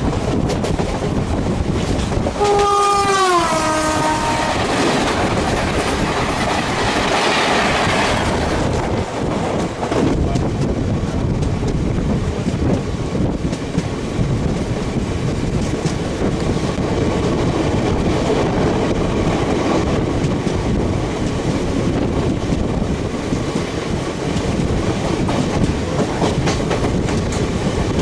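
Rumble and clickety-clack of a moving passenger train's wheels on the track. A train horn sounds for about two seconds, its pitch falling partway through, followed by a swell of rushing noise that fades after a few seconds.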